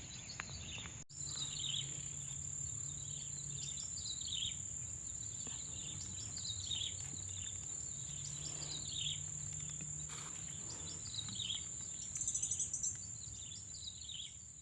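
Forest ambience: a steady high-pitched insect drone, with a bird repeating a short descending call about every second and a half. A brief pulsing insect buzz comes in near the end.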